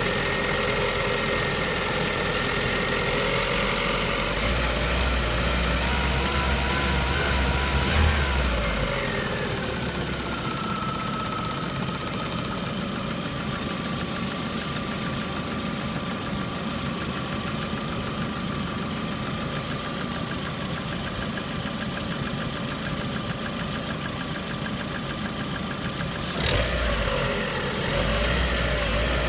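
Lada Priora car engine running with a knock. The engine note changes about four seconds in, a sharp click comes about eight seconds in, then the note slowly falls and holds steady at idle; near the end another click comes and the note changes again.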